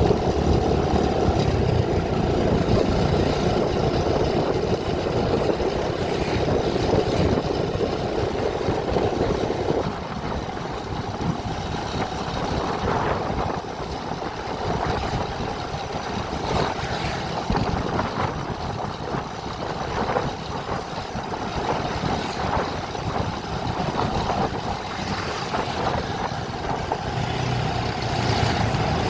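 A vehicle driving along a road: steady engine and road noise, easing about ten seconds in, with scattered knocks and rattles through the middle stretch.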